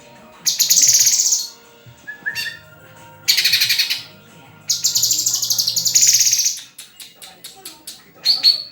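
Leafbird (murai daun) singing: three loud bursts of fast, high trilled song, the longest nearly two seconds, followed by a quick run of short sharp notes near the end.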